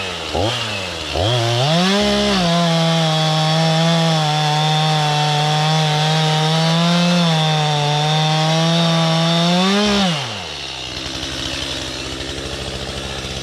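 Two-stroke chainsaw blipped a few times, then held at full throttle for about eight seconds with its pitch sagging slightly as it cuts into wood, and dropping back to idle near the end.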